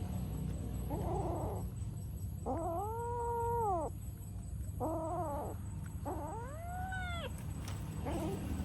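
Cat meowing in a series of about four drawn-out calls, each rising and then falling in pitch, the longest lasting over a second. A steady low rumble runs underneath.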